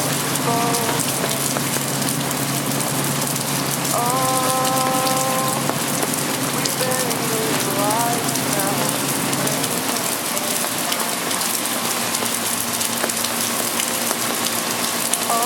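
Steady rain falling on a city street, a constant even hiss. A low steady hum stops about ten seconds in, and a few short pitched sounds rise above the rain now and then.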